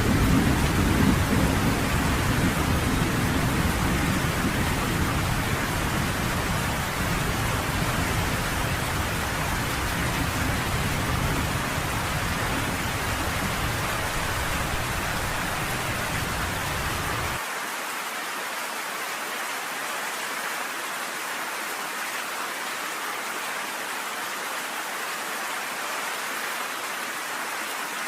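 Steady rain falling, with a low rolling thunder rumble that is loudest at the start and slowly fades. About two-thirds of the way through, the rumble cuts off abruptly and only the rain's even hiss remains.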